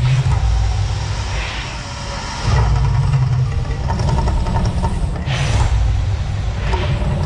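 Firework fountain (volcano) burning with a continuous rushing hiss over a low rumble, swelling in brief whooshes about five and a half and seven seconds in.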